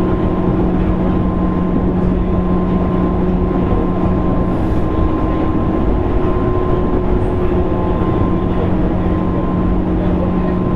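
JR East 205 series 600 subseries electric train running, heard from inside motor car MoHa 204-604: a steady rumble of the wheels on the rails with a constant low hum. The hum fades for a few seconds midway and then returns.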